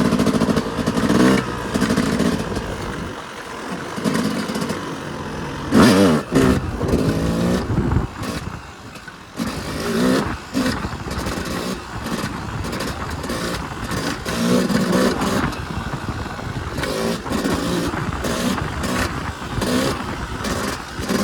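Yamaha YZ250 single-cylinder two-stroke dirt bike engine, ridden hard: it revs up and backs off over and over, the pitch climbing and falling with each burst of throttle. About eight seconds in it drops off throttle briefly, then picks up again.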